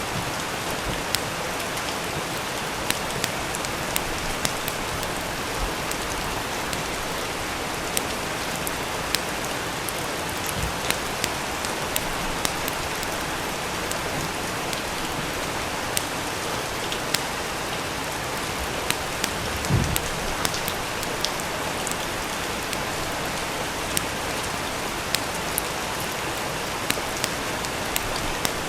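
Steady rain with scattered sharp crackles and pops from a wood fire, and a single soft low thump about twenty seconds in.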